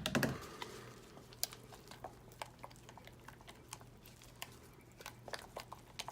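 A soap mold full of freshly poured soap batter knocked down on the work surface to settle it: one heavy thump at the start, then scattered small clicks and taps of handling.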